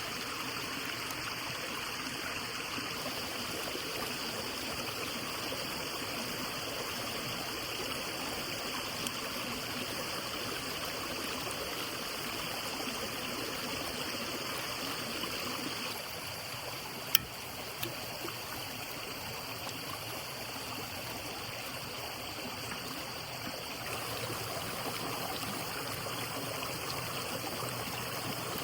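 Steady rush of flowing water, with one sharp click a little past halfway.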